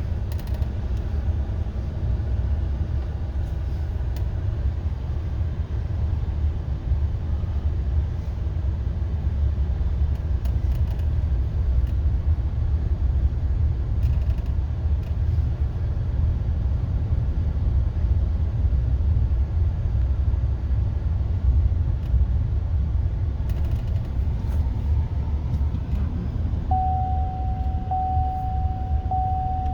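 Steady low rumble of a vehicle driving slowly, heard from inside. Near the end a high electronic tone starts beeping repeatedly.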